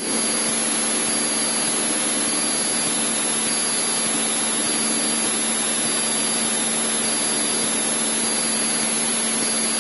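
Cessna 152's four-cylinder Lycoming O-235 engine and propeller running steadily in flight, heard inside the cabin as an even rushing drone with a steady hum under it.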